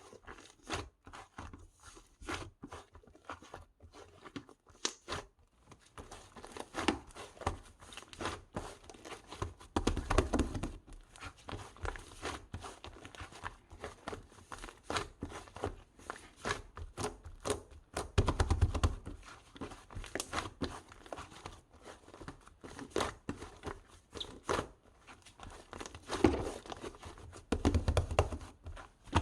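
Close-up hand handling of paper or plastic: irregular crinkling, rustling and tearing with light taps and knocks, growing louder in bursts a few times.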